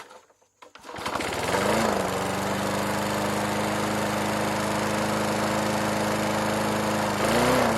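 3 hp Briggs & Stratton flathead lawn mower engine starting about a second in, picking up speed and settling into steady running, with a brief rev near the end.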